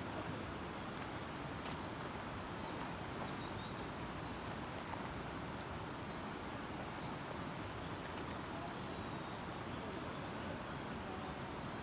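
Steady rush of a river or stream, with sparse small crackling clicks and a few short high bird calls, some gliding up or down.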